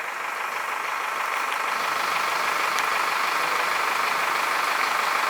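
Motor vehicle traffic: engine and tyre noise from cars moving through the flooded road, growing louder over the first two seconds and then holding steady.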